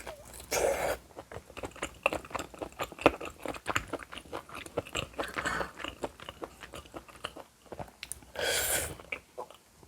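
Close-miked eating: a person chewing and crunching food with many quick wet clicks, and two louder, half-second noisy bursts, one just after the start and one near the end.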